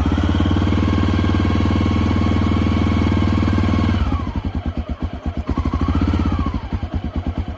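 Honda XR650L's single-cylinder engine, just started cold with the choke on, running at a fast, steady idle for about four seconds. It then drops to a slow, uneven idle with each firing pulse heard separately, and rises briefly in pitch about two seconds later before settling back.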